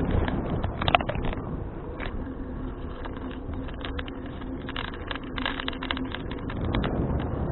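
Riding noise from a folding bicycle under a handlebar action camera: steady road rumble and wind on the microphone, with frequent rattling clicks and one sharp knock about a second in.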